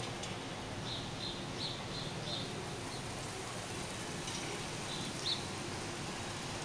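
Outdoor ambience: a steady background hiss with a small bird chirping, a quick run of short high chirps about a second in and a couple more near five seconds.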